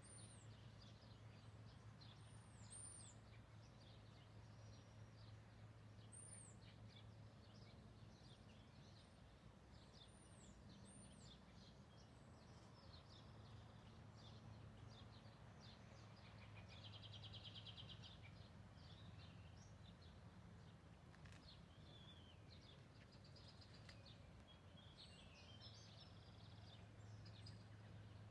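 Faint birds calling and chirping over a low steady hum. A few high arched whistles repeat in the first half, and there is a fast trill around the middle.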